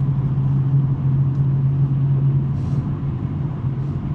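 2023 BMW M3 G80's twin-turbo inline-six with a non-resonated J-pipe exhaust, droning at a steady pitch as the car drives, over a low rumble.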